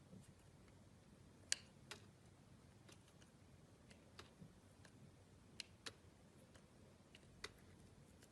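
Slime being handled: faint, scattered sharp clicks and pops, about six of them at irregular intervals, the loudest about one and a half seconds in.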